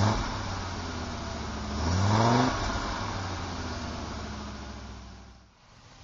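Audi Coupé GT 5E's 2.2-litre five-cylinder engine revved twice: a rev peaking at the start and a stronger one about two seconds in. Each time the engine settles back toward a steady idle, and the sound drops away briefly near the end.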